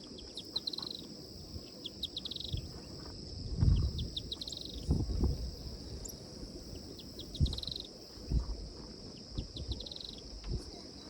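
Insects calling: a steady high-pitched buzz with short, rapidly pulsing chirps repeating every second or two. Scattered low thumps, the loudest sounds, come and go underneath.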